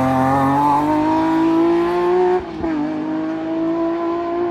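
Race car engine accelerating hard with a rising pitch, then an upshift about two and a half seconds in, after which it pulls up through the revs again.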